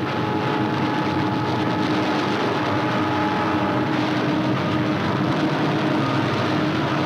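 Steady drone of an aircraft engine on an old newsreel soundtrack: an even, unchanging rumble with a faint hum at a few fixed pitches over film hiss.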